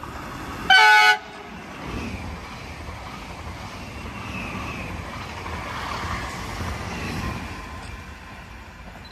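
A train horn gives one short, loud blast about a second in. Then a pair of new ETR 104 Pop electric multiple units rolls past: a steady rumble of wheels on rail with a faint high whine, fading as they draw away near the end.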